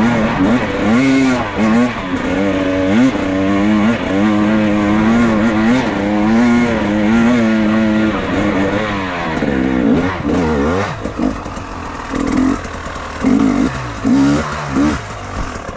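Enduro motorcycle engine being ridden hard, its pitch repeatedly climbing and falling with the throttle and gear changes. About ten seconds in it drops lower, with a few short throttle blips near the end.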